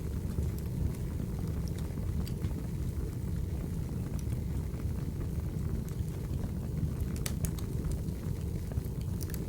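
Firewood burning: a steady low rumble of flames with scattered sharp crackles and pops, a small cluster of them about seven seconds in and again near the end.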